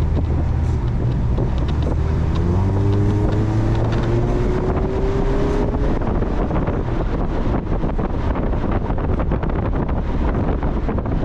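Mazda Miata's four-cylinder engine pulling under acceleration, its pitch climbing steadily for a few seconds, then sinking under a steady rush of wind and road noise for the rest.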